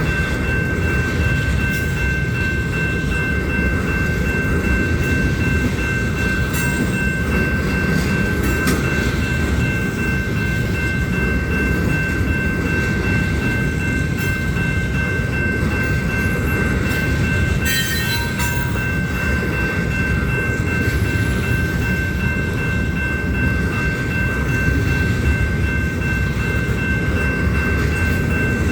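Union Pacific freight train rolling past, its cars making a steady low rumble with a steady high-pitched tone over it and occasional sharp clanks.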